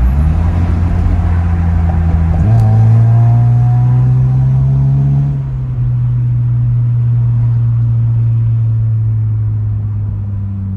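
Car engine and exhaust accelerating: the engine note rises about two seconds in and climbs for a few seconds, then eases off and settles into a steady drone at cruising speed.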